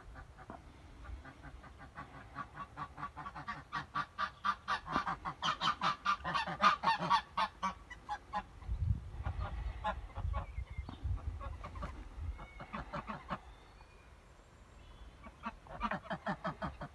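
Bird calls: rapid runs of honking calls, loudest in the middle, with a shorter run near the end.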